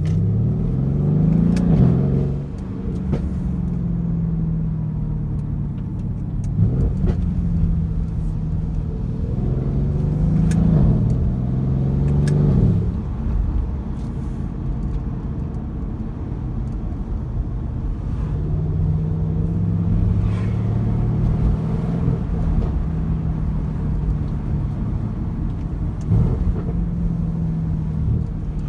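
Mercedes-AMG C63 S (W205) twin-turbo V8 exhaust under acceleration: the revs climb twice, about two seconds in and again around ten to twelve seconds, each time dropping at a gear change, then the engine runs at steadier revs. Sharp exhaust crackles and pops break through at intervals.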